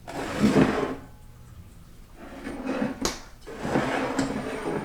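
Three bursts of scraping and rattling from automatic-transmission parts being handled, with a sharp knock about three seconds in.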